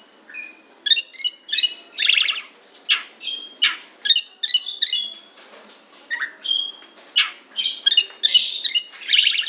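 Oriental magpie-robin singing a varied song of whistled notes and harsh, buzzy chatter. A burst of quick rising notes comes three times, about one, four and eight seconds in, with short whistles and rasping notes between.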